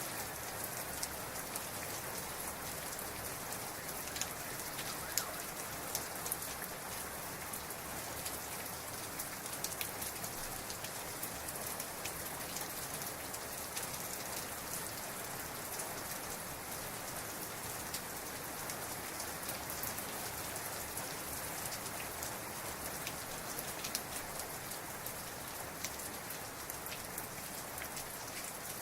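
Heavy rain falling steadily, a dense even hiss with many sharp individual drop hits and no thunder.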